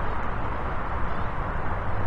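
Steady jet engine noise from an Airbus A320, a continuous rushing sound with a low rumble and no clear rhythm or change.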